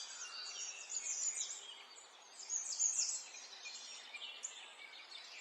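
Many small birds chirping and twittering at once, with short, quick calls overlapping throughout and a busier flurry about halfway through.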